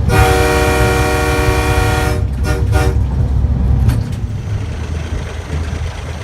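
Locomotive horn sounding one long blast of about two seconds, then two short toots, over a loud low rumble that drops off about four seconds in.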